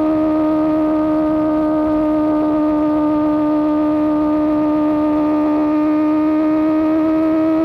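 Superbike engine through an AR GP1R aftermarket exhaust, held at steady high revs while riding: a constant, high-pitched drone that does not change in pitch.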